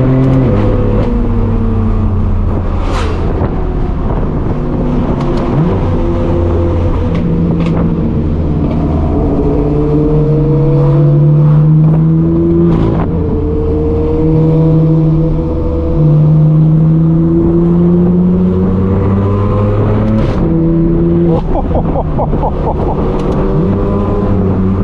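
Straight-piped BMW M4 F82's twin-turbo inline-six pulling through the gears on its dual-clutch gearbox: the exhaust note climbs in pitch and drops back at each quick upshift, several times over. A few sharp exhaust cracks come through along the way.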